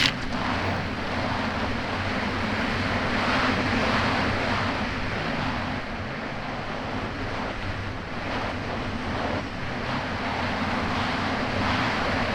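Kawasaki Ultra 300X jet ski's supercharged four-cylinder engine running at a steady pace, with wind buffeting the microphone and water rushing past the hull on choppy water. A sharp loud slap right at the start.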